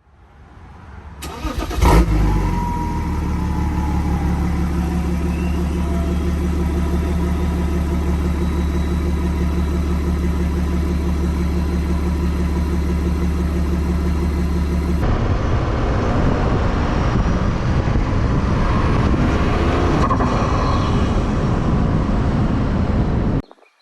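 BMW 335d's M57 twin-turbo inline-six diesel cold-starting: it cranks and catches with a loud flare about two seconds in, then settles into a steady idle. About fifteen seconds in it changes abruptly to a louder, rougher engine sound that cuts off suddenly near the end.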